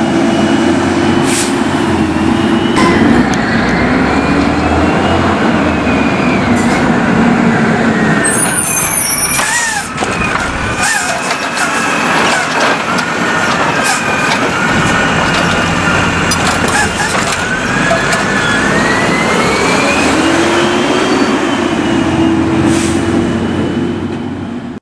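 Refuse truck with a Curbtender recycling body running, its engine note dipping and rising, with whines that glide up and down and a cluster of clanks and knocks about halfway through. The sound fades out at the end.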